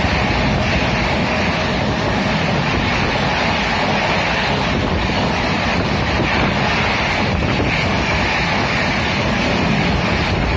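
Express train of passenger coaches passing close by at high speed: a steady, loud rushing of wheels on rail and moving air.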